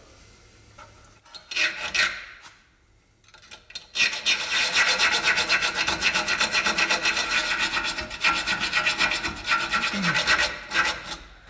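A hacksaw rasping through a seized steel nut on the front suspension. There is a brief stroke about two seconds in, then a run of fast, even strokes from about four seconds in until shortly before the end.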